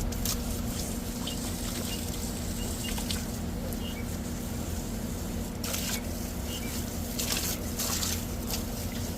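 Water from a garden hose spraying on an air-conditioner condenser coil and pattering against the fins, with a few louder surges of spray past the middle, over a steady low hum.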